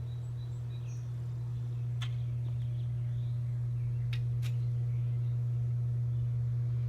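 A steady low hum throughout, with three faint sharp clicks near the middle.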